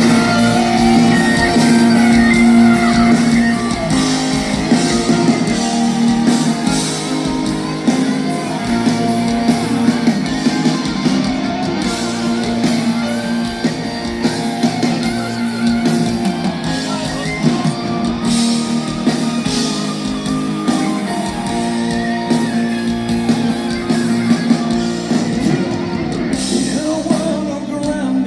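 Rock band playing live in a large hall: electric guitars, drums and long held notes, with some singing over them.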